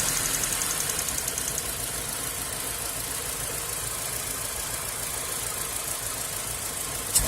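1.3 L Hyundai Accent G4EA four-cylinder engine idling, the rough idle that is being traced with a vacuum gauge; a quick regular ticking in the first second and a half, and a sharp click near the end.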